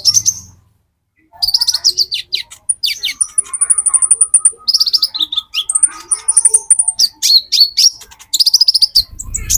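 Konin sunbird song: rapid runs of high, thin chirps and trills with a few held high notes, after a brief pause about a second in.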